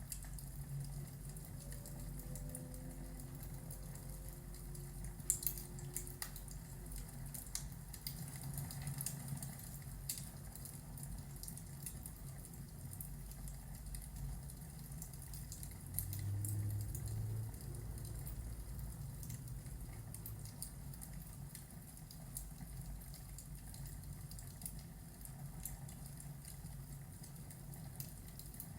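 Fireplace and thunderstorm ambience: a fire crackling with scattered sharp pops over a steady low rumble, with a brief louder low rumble about sixteen seconds in.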